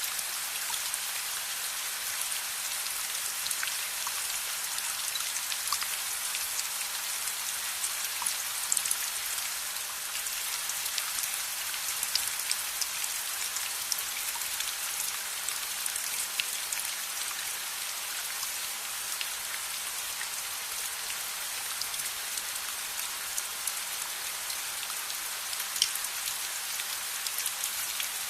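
Steady rain falling: a dense, even hiss with scattered sharp ticks of drops striking.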